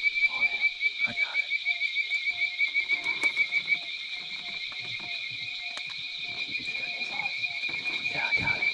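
Nighttime swamp chorus of frogs and insects: a steady, high, fast-pulsing trill with a lower short call repeating a couple of times a second, and scattered knocks and rustles in the boat.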